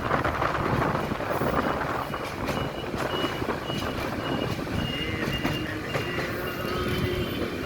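Train running along the track with a steady rumble, and a short high electronic beep repeating about twice a second from about a second and a half in.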